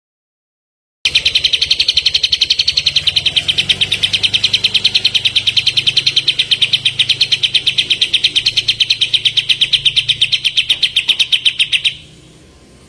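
Kapas tembak bulbul singing a long, rapid string of sharp, evenly repeated notes, about seven a second. It starts about a second in and stops near the end, over a faint low hum.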